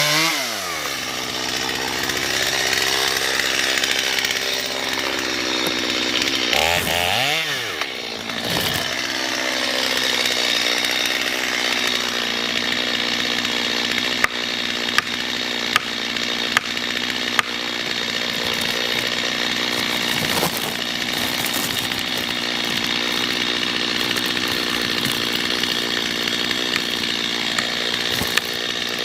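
Two-stroke chainsaw cutting a tree for felling. About seven seconds in the engine's pitch drops and climbs again as the throttle is eased and reopened, then it runs steadily at full throttle. Several sharp clicks come midway.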